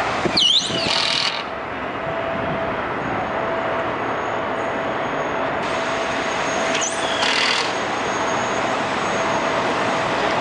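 Steady vehicle-engine noise with a faint steady hum, broken twice by short, high, sliding squeals, about a second in and again about seven seconds in.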